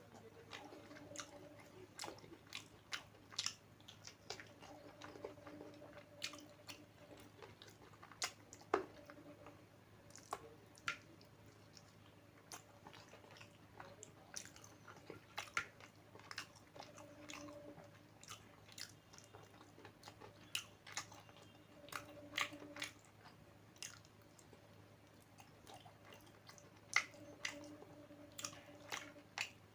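Close-up chewing and biting of food: irregular wet mouth clicks and smacks, with occasional crunches.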